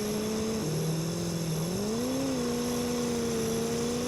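Pickup truck engine heard from inside the cab while accelerating through its gears. The engine note drops as it shifts up a gear about half a second in, then climbs again over the next second and holds steady.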